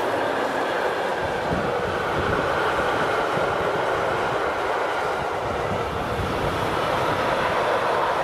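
Loaded double-deck car-transport freight wagons rolling steadily past: a continuous rumble and clatter of steel wheels on the rails, with a faint steady ringing tone above it.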